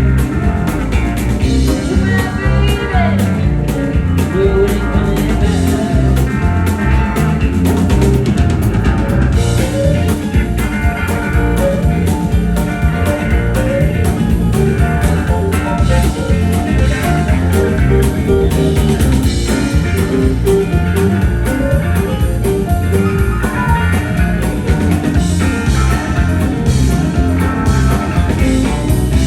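Live country-rock band playing an instrumental passage: electric guitar over bass and a drum kit keeping a steady beat.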